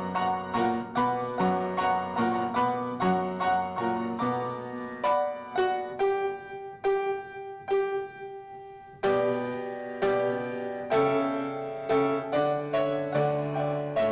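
Piano playing: chords and melody notes struck in a steady rhythm, each note dying away. The playing softens briefly about eight seconds in, then comes back louder.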